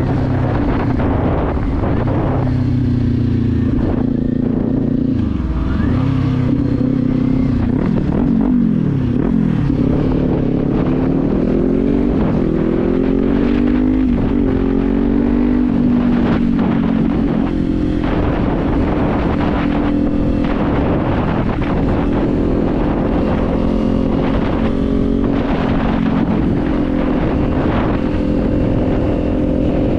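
Kawasaki Z400's parallel-twin engine running under way, its revs falling twice early on, climbing again, then holding steady at cruise, with wind noise on the microphone.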